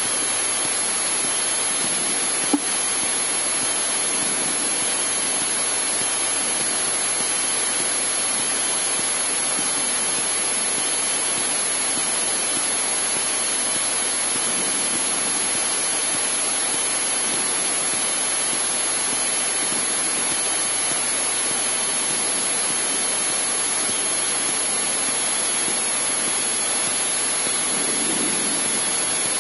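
Steady, even cockpit noise of a Cessna 152's four-cylinder Lycoming engine and propeller at low taxi power, with a single sharp click about two and a half seconds in.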